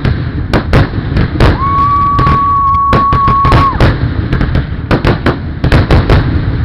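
Fireworks display: many loud bangs in quick succession over a continuous low rumble. A steady whistling tone is held for about two seconds in the middle.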